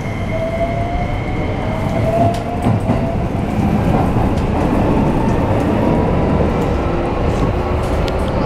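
Running sound inside a Keikyu New 1000 series (1890 subseries) train on the Toyo hybrid SiC VVVF inverter car: a motor whine rising in pitch as the train accelerates, over the rumble of wheels on the rails with scattered clicks.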